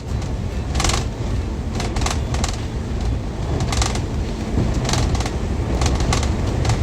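Steady low rumble of a moving boat, with wind noise on the phone's microphone and a handful of short crackles.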